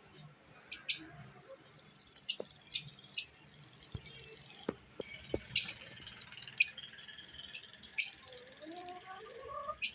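Lovebirds giving short, sharp, high chirps at irregular intervals, with a few lower gliding calls near the end.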